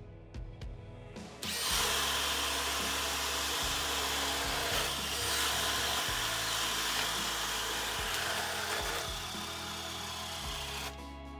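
Cordless drill driver running under load as it bores. The drilling starts about a second and a half in, runs steadily for about nine seconds and stops near the end, over background music.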